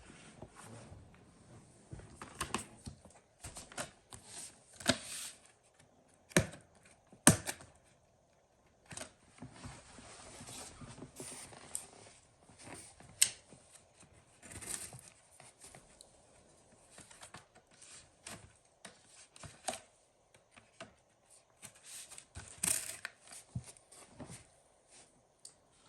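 Cardboard box being handled and opened: tearing and scraping of packaging, with scattered clicks and knocks, the loudest around six to seven seconds in and again near thirteen seconds.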